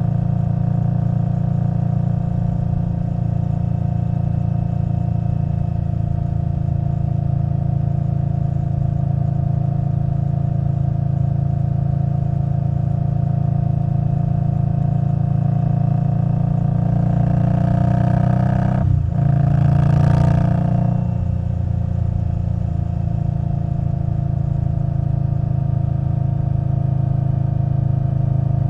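2021 Indian Scout Bobber Twenty's 1133 cc liquid-cooled V-twin running at a steady cruise through a Vance & Hines Twin Slash exhaust. About two-thirds of the way in the revs climb, break off briefly and climb again louder, then settle back to a steady cruise.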